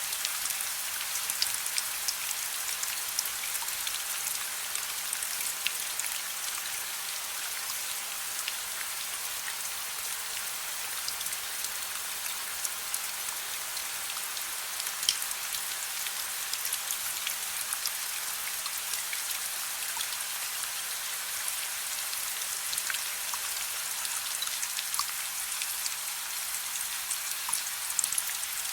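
Steady soft rain: an even hiss with many separate drop ticks scattered through it.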